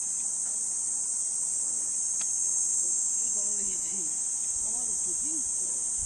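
Steady, unbroken high-pitched drone of an insect chorus, with faint voices in the background about midway.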